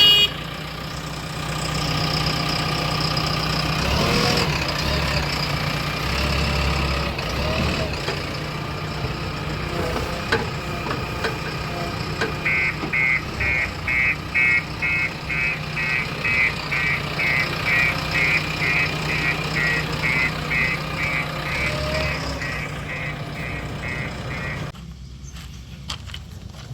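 Diesel engine of heavy earthmoving machinery running steadily. From about halfway through, a reversing alarm beeps rapidly, a couple of beeps a second, and stops shortly before the end.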